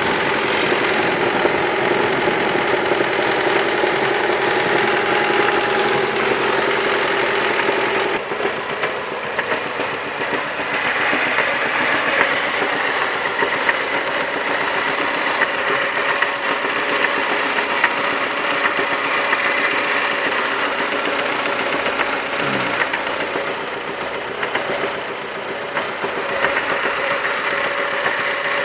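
Mazda 6 engine running with a knock from a failed connecting-rod bearing, which the owner first put down to disintegrated bearings and later confirmed. The sound shifts and drops a little in level about eight seconds in.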